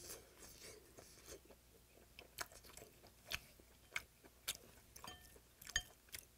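A person chewing pieces of yellow stingray from a bowl of soup, faint and close-miked, with scattered small sharp clicks from the mouth and the chopsticks.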